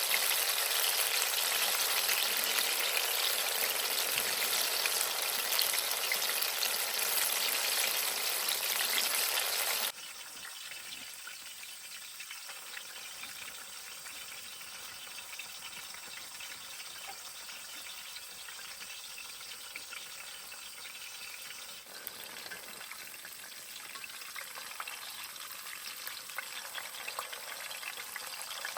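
Food frying in hot oil, a steady sizzling hiss that drops suddenly to a quieter sizzle about a third of the way through and rises slowly again toward the end.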